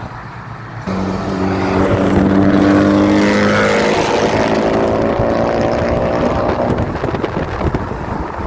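A car's engine accelerating hard, starting suddenly about a second in and climbing steadily in pitch as it pulls away, loudest a couple of seconds in.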